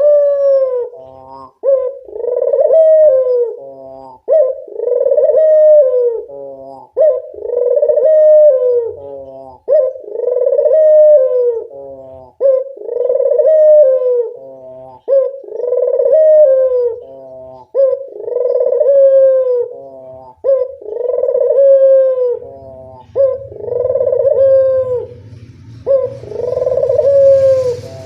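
Barbary dove (local puter) cooing over and over, each call a short stuttering note followed by a longer coo, repeating about every two and a half seconds. A low hum joins in the last few seconds.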